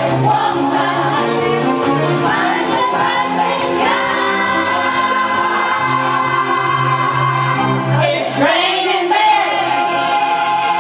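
Karaoke singing over a backing track, the voice holding long sustained notes with a slide in pitch about eight seconds in.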